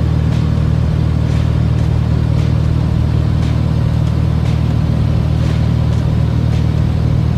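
Steady drone of a Cessna R182RG's Lycoming O-540 six-cylinder engine and propeller running at constant power, with a faint tick about once a second.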